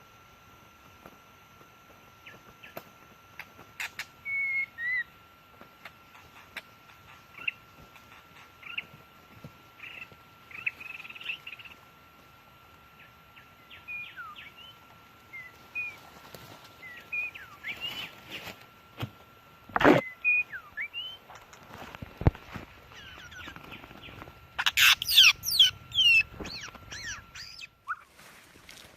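Songbird calls: scattered short chirps and whistled notes, building to a quick flurry of high notes a few seconds before the end. A few sharp knocks sound in between, two of them close together past the middle.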